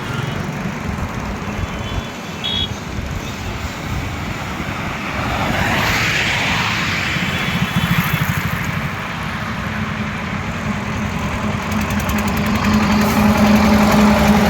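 Highway traffic: vehicle engines running and passing, with one vehicle passing loudly about six seconds in and a steady engine drone growing louder near the end.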